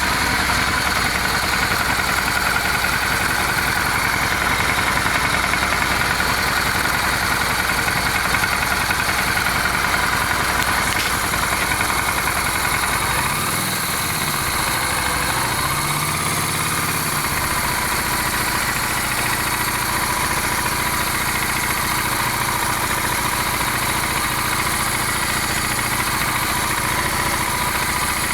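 Honda Steed 400 V-twin engine running steadily at idle with a knock that seems to come from the rear (left) cylinder, from somewhere low in the engine.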